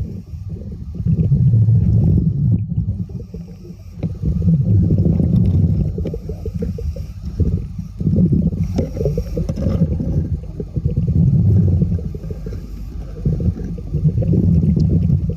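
A diver's breathing heard through a muffled underwater microphone: a low, gurgling sound that swells and fades about every three seconds, one breath after another.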